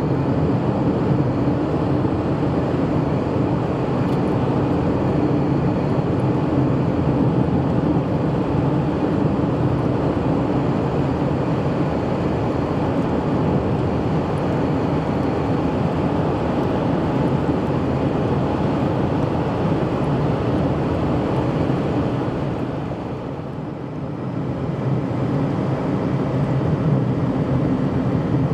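A steady motor-vehicle running noise with a low hum, easing off briefly about three-quarters of the way through and then picking up again.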